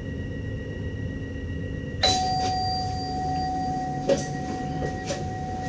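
A single bell-like chime about two seconds in, its tone ringing on for several seconds, over the steady low rumble of the moving train's cab, with a few light clicks after it.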